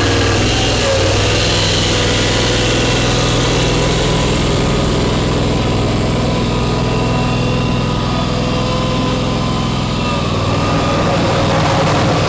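John Deere X585 garden tractor's engine running steadily while the tractor clears wet snow. The sound dips slightly about ten seconds in, then picks back up.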